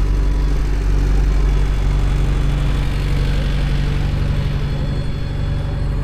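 Engine idling: a steady low hum.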